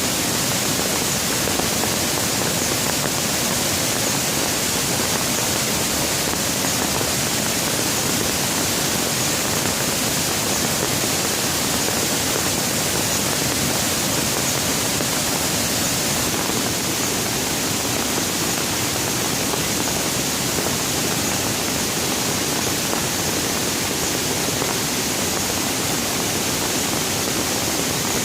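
Steady rain falling, an even hiss with no thunder and no separate drops standing out.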